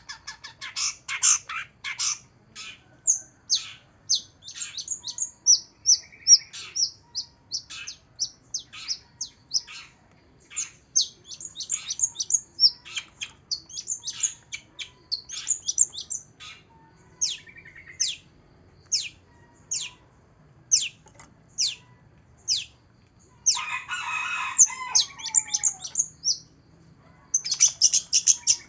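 Long-tailed shrike (cendet) song: a rapid string of short, sharp, high chirps with brief pauses, and a harsher, scratchy stretch a few seconds before the end.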